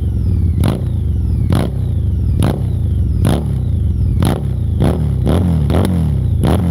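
Harley-Davidson V-Rod Muscle's liquid-cooled Revolution V-twin running through Bassani slip-on exhausts, with sharp blips about once a second. Near the end the revs rise and fall.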